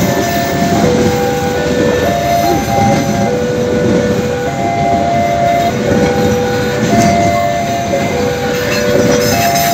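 Passenger train coaches rolling slowly past with a steady wheel-on-rail rumble. Over it a warning alarm repeats a pattern of steady tones, one held note after another, about every two and a half seconds, typical of a railway level-crossing signal.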